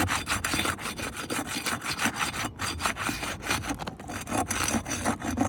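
A tool scraping and prying under an asphalt shingle to break its adhesive seal, a rapid, uneven series of short rasping strokes. The brittle shingle is shedding its granules as it is worked.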